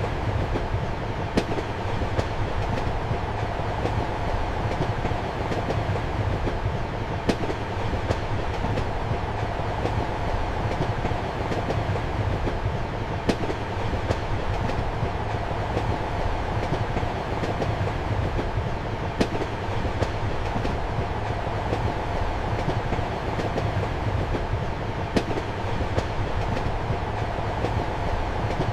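Inside a moving railway carriage: the steady rumble of the running train with a low hum, and a sharp click of the wheels on the rails about every six seconds.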